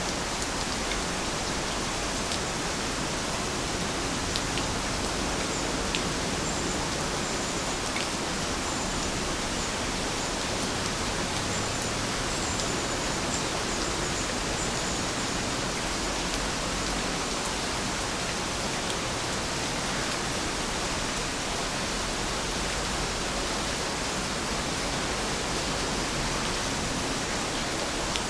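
Heavy rain falling steadily, an even hiss with a few sharper drop ticks now and then.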